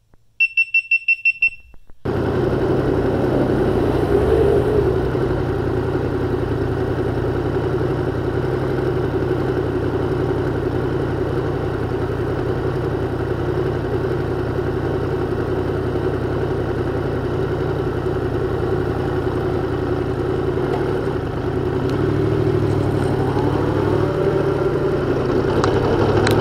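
A GoPro Hero 10 gives a quick run of about eight high beeps as its recording is stopped. Then a Yamaha MT-10's crossplane inline-four engine runs steadily at low speed, a little louder from about 22 seconds in.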